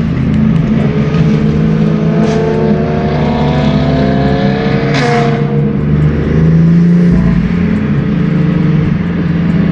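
Car engine accelerating hard, its pitch rising for about four seconds and ending in a sharp crack about five seconds in, over a steady low drone.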